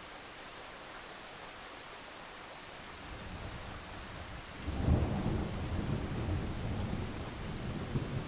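Steady rain hissing, with thunder rumbling up about three seconds in and breaking into a loud, deep rumble about five seconds in that rolls on to the end.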